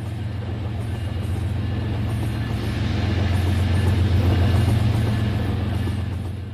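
Battery-powered toy train running on its track: a steady motor hum with rattling wheel noise, growing a little louder and then fading near the end.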